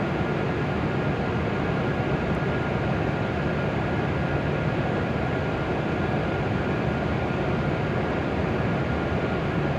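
Steady drone of a Hokuriku Shinkansen trainset standing at the platform, its onboard blowers and air conditioning running, with a faint steady whine on top.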